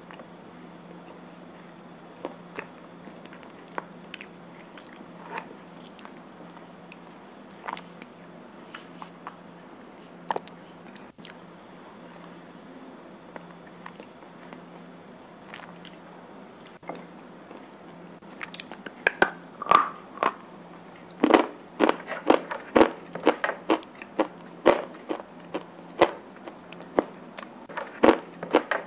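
Slate pencils being bitten and chewed: scattered sharp crunches at first, then rapid, louder crunching for the last third.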